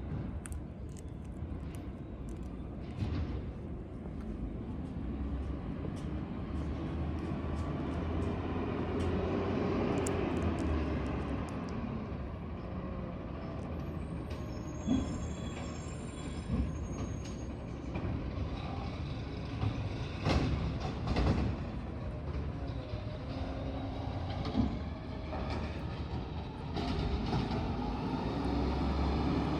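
Green waste garbage truck's diesel engine running with a low rumble, with scattered knocks and clanks and a brief high squeal partway through; the engine gets louder near the end.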